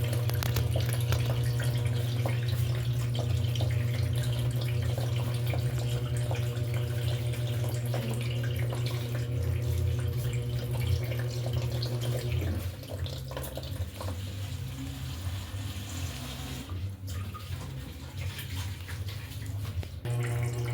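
Electrolux LED14 washing machine filling with water: water running into the tub over a steady low hum. The hum drops away about twelve seconds in, leaving mainly the water sound.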